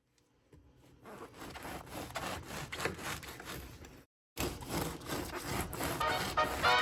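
Irregular scraping and rubbing with many small clicks, cut off briefly just after four seconds in; music with clear notes begins near the end.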